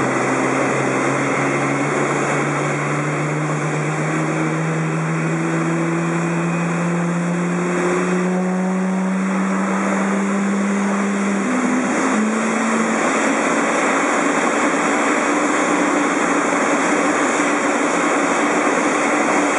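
Jet airliner engines running at high power: a loud, steady rush with engine tones that slowly rise in pitch over the first ten seconds or so, then hold steady.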